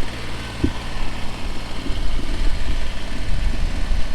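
Kubota BX23s compact tractor's small three-cylinder diesel engine running steadily at idle, with one brief low thud about half a second in.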